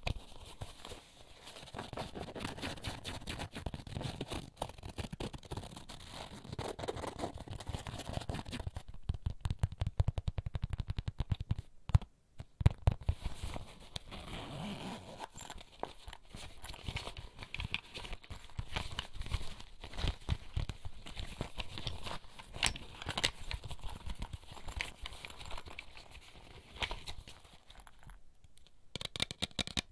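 Fingertips tapping and scratching on small items from a bag's contents, a dense run of quick close taps and rustles, with a short break about twelve seconds in.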